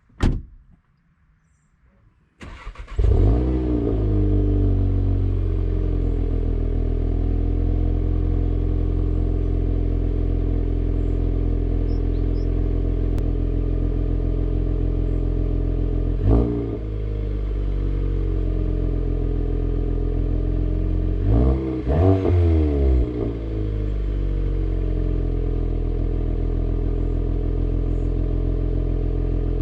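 Volkswagen Golf GTI's turbocharged 2.0-litre four-cylinder cold-starting through the stock exhaust: a sharp click, then the engine cranks and catches about two and a half seconds in, flares up and settles into a steady fast idle. It is revved briefly once about halfway through and a few times in quick succession about three-quarters of the way through, then idles steadily again.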